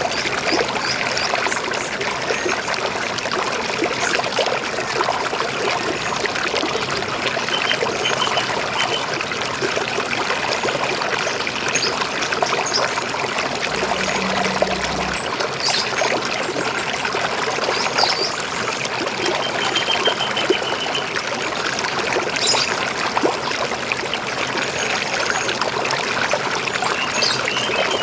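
River water flowing and gurgling steadily, with a few short high bird chirps now and then.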